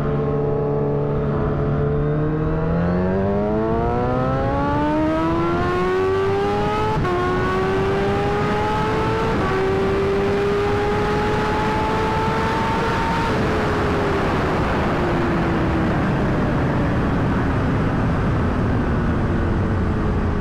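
Kawasaki Ninja H2's supercharged inline-four accelerating hard. Its pitch rises with two upshifts about 7 and 9 seconds in, then falls steadily over the last several seconds as the throttle is eased. Wind noise builds with speed.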